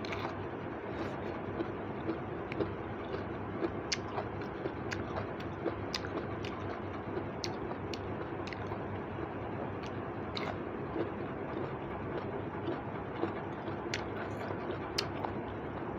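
A person chewing a mouthful of fish and rice eaten by hand, with many small, scattered mouth clicks over steady low background noise.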